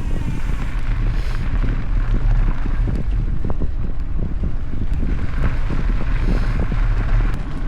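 Wind buffeting the microphone of a mountain bike's camera while riding a dirt singletrack trail, with a steady low rumble and many small knocks and rattles from the bike over bumps.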